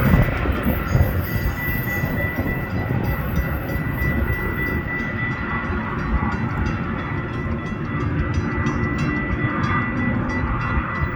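A train passing close by: a steady heavy rumble of wheels on rail with a thin high steady tone over it, and from about halfway in, faint regular clicking of wheels over rail joints.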